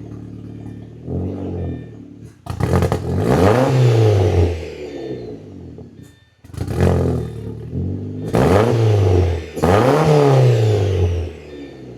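An Audi's engine through a homemade exhaust, idling and then revved about five times in quick blips. Each blip rises and falls in pitch, then drops back to idle.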